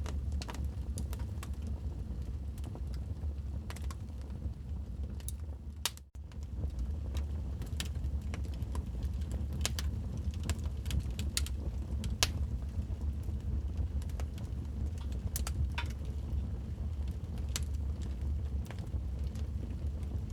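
Wood fire crackling in a fireplace: irregular sharp pops and snaps over a steady low rumble. The sound briefly drops out about six seconds in.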